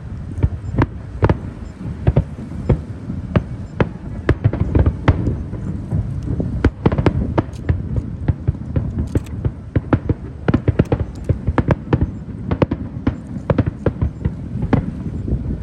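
Aerial fireworks bursting: a dense run of sharp bangs, thickest in the middle, over a continuous low rumble.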